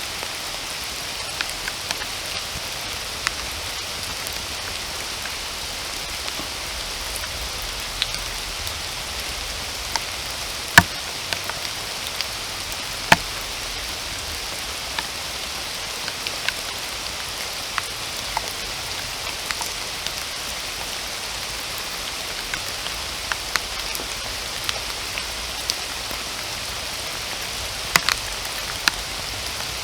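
Steady rain falling in a forest, an even hiss with scattered sharp taps of single heavy drops landing close by, a few standing out louder about a third of the way in and near the end.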